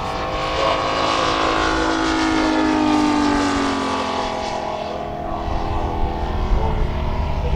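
MOKI 250 radial engine of a 1:4 scale Grumman F4F Wildcat RC model flying past, its drone rising to a peak about three seconds in and then falling in pitch as it moves away. It fades after about five seconds, leaving a low rumble.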